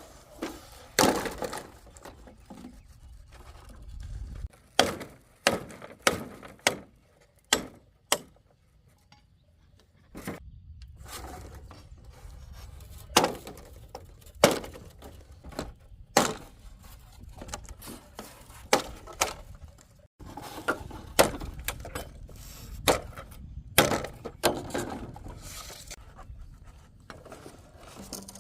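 Irregular sharp knocks of tool strikes on wood or bamboo, about twenty blows with uneven pauses between them, over a low steady rumble.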